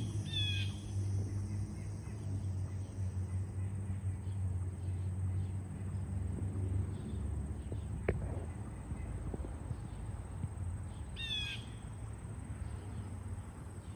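A bird calls twice, about eleven seconds apart: each call is a quick run of short falling notes. A steady low hum runs underneath, and there is a single sharp click near the middle.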